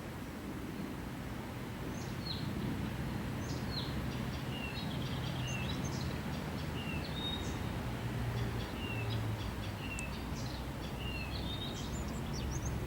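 Small songbirds chirping, many short high calls and quick falling notes from more than one bird, over a low steady rumble that grows louder in the second half.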